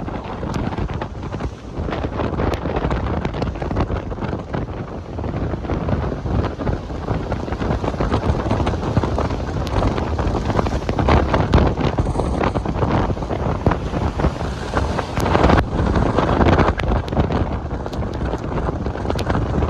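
Gale-force wind gusts buffeting the microphone, a loud rumbling rush that swells and eases, with the strongest gusts about eleven and fifteen seconds in.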